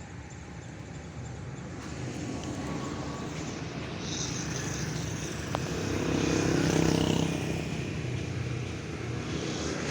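Small electric RC ornithopter's motor and flapping-wing gearbox whirring in flight, growing louder to a peak about six to seven seconds in, then easing off.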